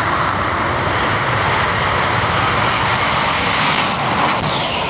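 Jet funny cars' turbojet engines running at full power down the drag strip, a loud, steady rush of noise. Near the end a high whine falls in pitch as the cars go past.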